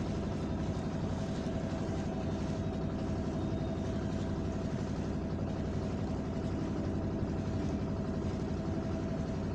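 An engine running steadily at a constant speed: an even, unchanging hum.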